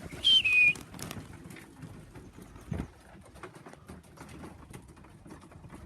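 A short, loud two-note whistle, stepping down in pitch, calling racing pigeons back to the loft, followed by faint pigeon cooing and scattered light taps.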